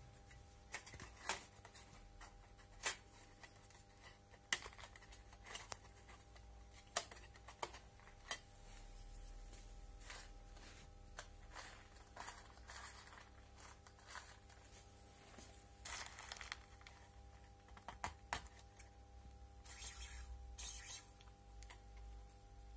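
Scattered small clicks and short rustles of hand work with parts and tools on a workbench, over a faint steady hum.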